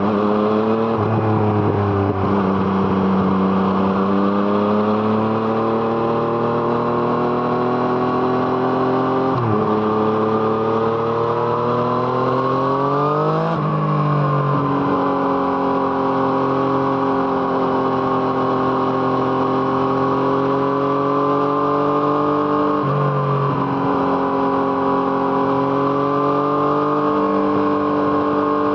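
2017 Yamaha MT-09's inline-three engine with an aftermarket Arrow Thunder exhaust, under way: it pulls steadily up through the revs with two upshifts, about nine and thirteen seconds in, where the pitch drops sharply. It then runs at a steady cruise, with a brief dip and recovery near the end.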